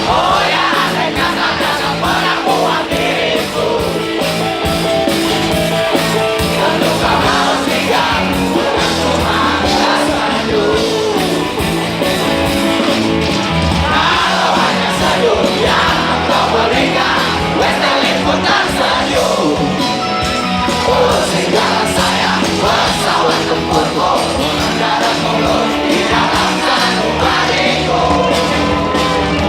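Live band playing a pop-rock song loudly, with a full instrumental mix and a wavering melodic line over it.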